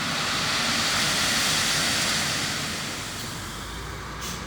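Sand pouring and sliding out of a tipped dump truck body as the truck edges forward. The rushing hiss swells over the first couple of seconds, then dies away.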